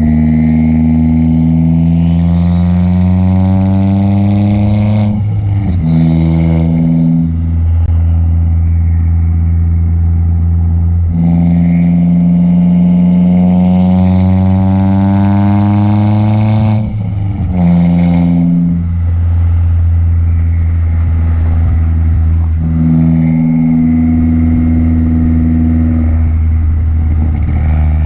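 Turbocharged Ford Fiesta ST engine and its MBRP cat-back exhaust with catless downpipe, droning under acceleration. The pitch climbs steadily and breaks briefly about five seconds in and again near seventeen seconds, as at gear changes, before settling into a steadier drone.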